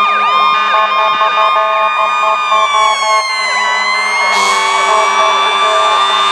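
Several emergency-vehicle sirens sounding at once: fast repeating yelp sweeps over steady siren tones. Midway one siren's pitch sinks slowly and climbs back, and about four seconds in a louder steady note joins.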